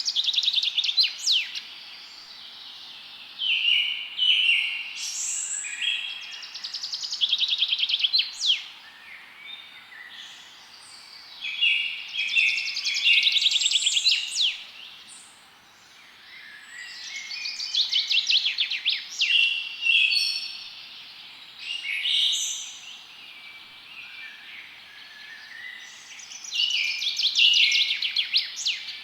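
Songbirds singing in a forest: bright phrases of rapid trills and quick whistled notes, repeated every few seconds with a short lull about halfway, over a steady background hiss.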